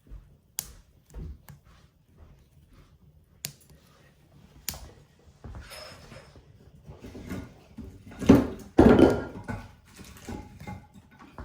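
Pieces of firewood being set into a wood-burning stove: scattered knocks and clicks of wood on wood and metal, with the loudest clatter about eight seconds in.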